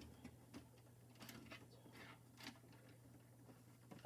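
Near silence: faint, scattered clicks and rustles of alarm wires being bundled together with a cable tie, over a low steady hum, with a sharper click at the very end.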